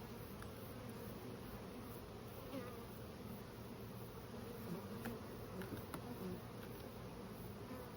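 Honeybee swarm buzzing: a steady hum of many bees flying, with a few light clicks in the middle.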